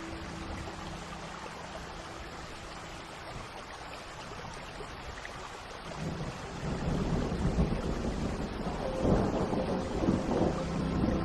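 Steady rain, then a long roll of thunder that builds from about halfway through and peaks near the end.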